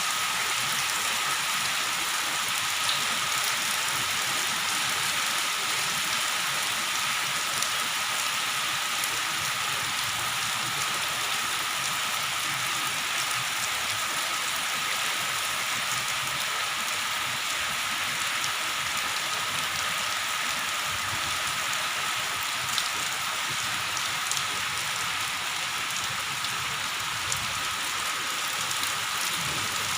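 Heavy rain falling steadily, a dense even hiss with a few individual drops ticking now and then.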